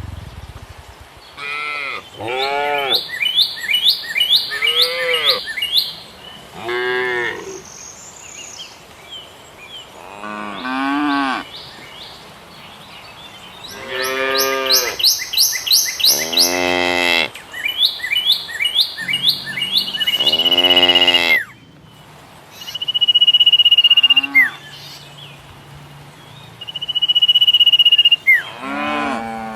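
Cattle mooing again and again: a string of separate calls that rise and fall in pitch, some close together or overlapping. In the second half a loud, high, steady whistle of about a second sounds several times between the moos.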